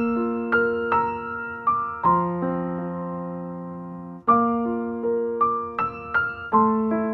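Gentle background music on electric piano: single struck notes and chords that ring and fade, with one chord held for about two seconds before the phrase starts again.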